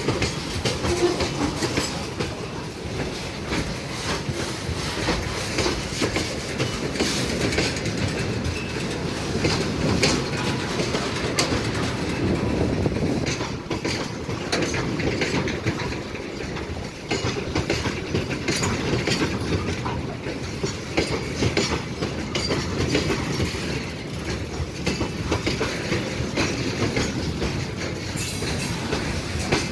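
Railway train rolling past close by, its wheels clattering continuously over rail joints.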